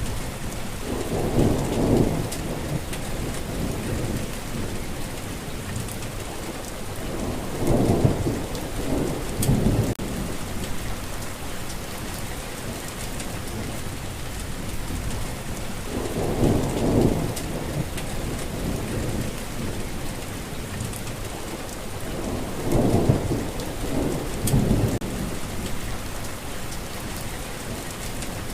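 Steady rain with four low rolls of thunder that swell up and fade, spread through the stretch about every seven seconds.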